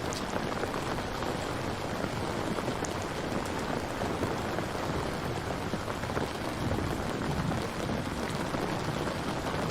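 Steady rain falling, an even hiss with small patters of drops striking a surface.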